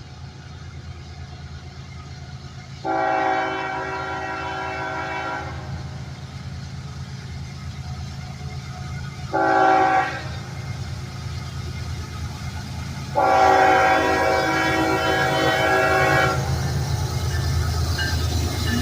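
Norfolk Southern freight locomotive's air horn sounding over the steady low rumble of the diesel locomotives working upgrade: a long blast about three seconds in, a short one about nine seconds in, and a longer one from about thirteen seconds. Together with a blast just before, this is the long-long-short-long grade-crossing signal.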